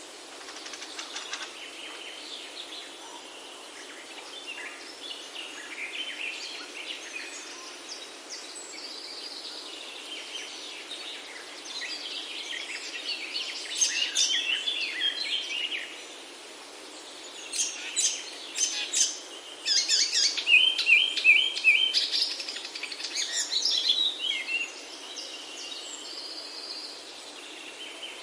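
Songbirds singing and calling over a steady background hiss. The calls come thickest in the second half, with a fast run of repeated notes a little past the middle.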